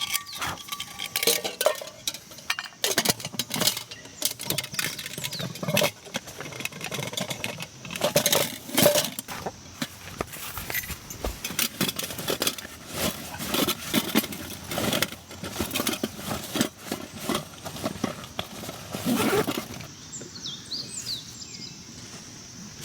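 Camp gear being handled close by: irregular metallic clinks, knocks and rustling that stop about twenty seconds in.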